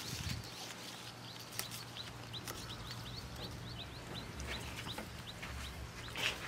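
A bird chirping over and over: short high chirps, about three a second. A few light clicks of metal tongs sound among them.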